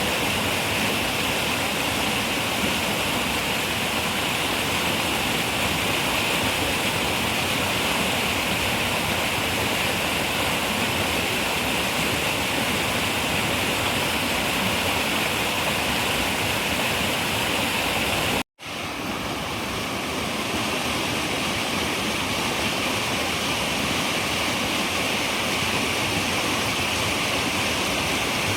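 Running river water, a steady rushing flow. About two-thirds of the way through it cuts out for a split second and fades back in, a little duller in the treble.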